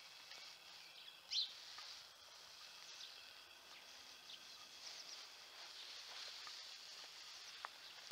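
Faint birds chirping over a quiet background hush, with one short, rising chirp about a second and a half in as the loudest sound.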